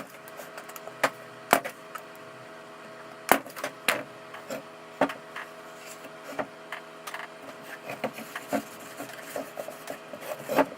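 Pine boards knocking and clacking against each other and the bench as they are handled: irregular sharp wooden knocks, roughly one a second, over a faint steady hum.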